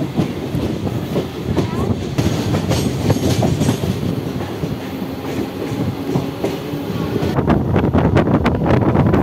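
Mumbai suburban local electric train running at speed, heard from its open doorway: a continuous rumble of steel wheels on the rails. Near the end it turns into a fast run of clacks as the wheels go over track joints.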